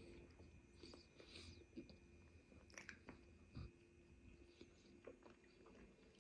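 Faint chewing with scattered soft crunches and mouth clicks as food is eaten close to the microphone.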